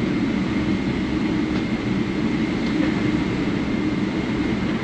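Steady airliner cabin noise of a Boeing 777-300 on the ground just after landing: a low, even rumble with a thin steady high tone above it.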